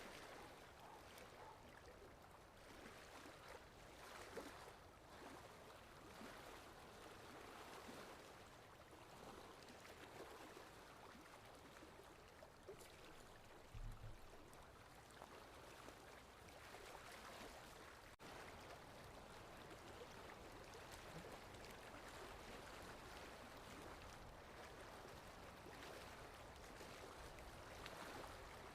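Faint sea waves washing in a soft, even wash of water noise that swells and eases slowly. A brief low thump about halfway through.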